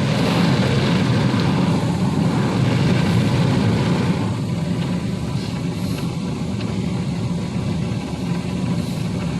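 Mark VII ChoiceWash XT automatic car wash running its brush pass over a pickup truck: spinning wash brushes and water spray over a steady low machine hum, easing a little about four seconds in.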